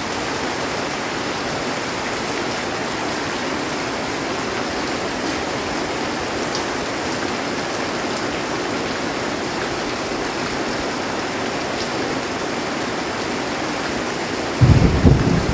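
Heavy rain drumming steadily on a metal roof. Near the end a loud, low rumble of thunder starts suddenly.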